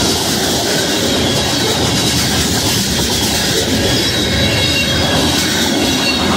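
Empty open-top coal hopper cars of a freight train rolling past, a steady loud rumble and rattle of steel wheels on rail, with a faint high steady squeal over it.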